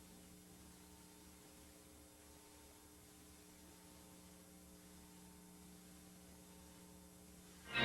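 Faint, steady electrical hum with no other sound. Loud music starts abruptly at the very end.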